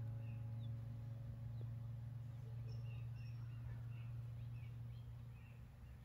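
Songbirds chirping outdoors: many short, quick chirps repeating throughout, over a steady low hum.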